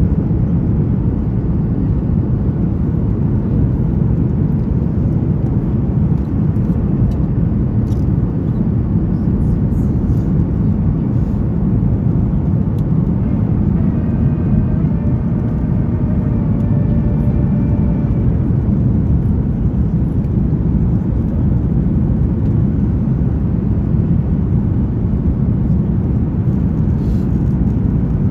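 Steady low rumble of a Boeing 737-900ER's cabin in flight: engine and airflow noise, even and unchanging.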